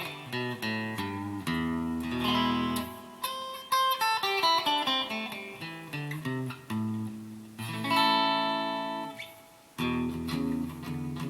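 Donner DST-200 electric guitar played with its pickup selector in position 3, the middle pickup. It plays picked notes and chords, and one chord is left to ring and fade out before the playing starts again.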